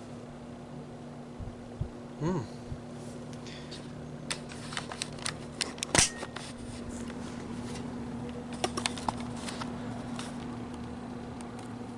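General Electric box fan's shaded-pole motor running with the blade on, giving a steady low hum now that the loose shading coil has been dealt with; the owner thinks this might have fixed the buzzing. Scattered sharp clicks and taps sound over it, the loudest about halfway through.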